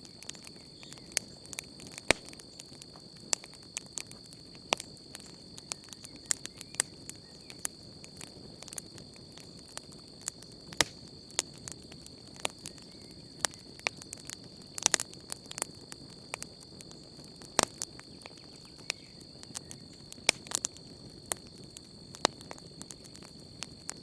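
Wood campfire crackling, with sharp pops at irregular intervals over a low rushing hiss of burning. Under it runs a steady, high-pitched insect trill.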